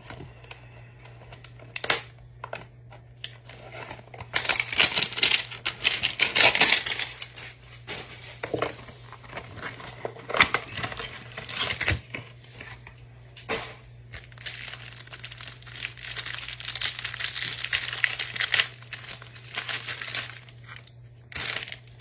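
Trading-card hanger box and its plastic-wrapped pack being torn open and handled: crinkling, tearing wrapper noise in two long spells, with scattered small clicks and taps.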